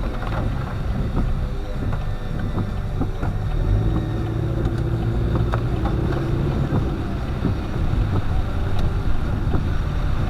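A car driving in the rain: a steady low rumble of engine and road noise, with scattered sharp taps from raindrops and a faint hum that comes in for a few seconds midway.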